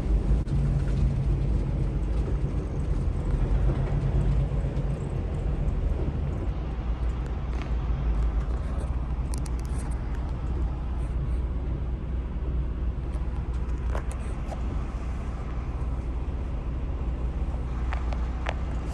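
Semi-truck's diesel engine running, a steady low rumble, with a few faint clicks over it.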